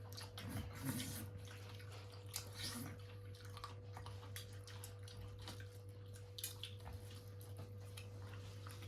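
Faint wet eating sounds from chewing and sucking at a fish head: a string of small irregular clicks and smacks. A steady low hum runs underneath.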